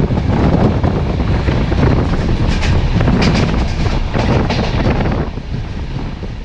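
Moving passenger train heard from an open coach doorway: wheels rumbling on the rails with wind on the microphone and a run of sharper clatters in the middle. The sound fades out near the end.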